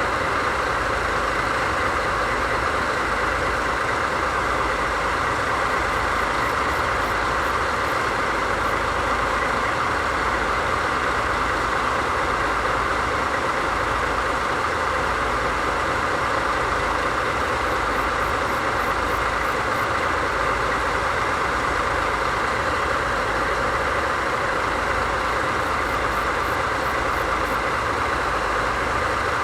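DD51 diesel-hydraulic locomotive idling, its twin DML61Z V12 diesel engines giving a steady, unchanging running sound.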